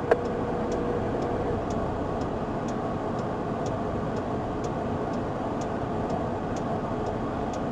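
Steady running noise inside a police car's cabin, with a faint, regular ticking about twice a second.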